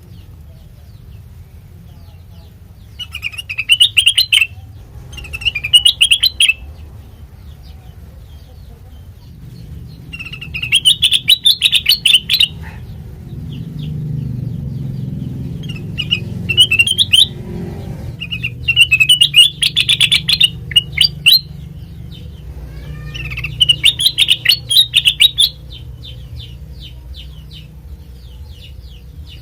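Kutilang mas bulbul singing in about six separate bursts of rapid chirping notes, each burst one to two and a half seconds long with pauses between. A steady low hum runs underneath.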